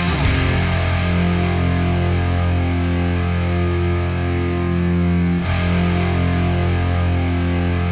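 Rock music with distorted electric guitar holding chords and no singing. The chord changes about five and a half seconds in.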